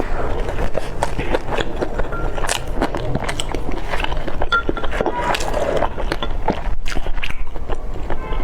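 Close-miked chewing of a steamed dumpling, a dense run of soft wet mouth clicks and squelches that stops abruptly at the end.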